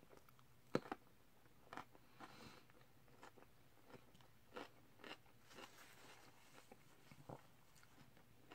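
Close mouth sounds of biting into a pickled yellow chili pepper and chewing it. A sharp crunchy bite comes about a second in, followed by scattered softer crunches and mouth clicks.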